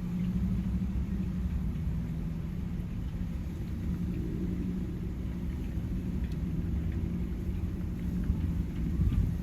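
Motor vehicle engine running steadily with a low rumble, as in street traffic.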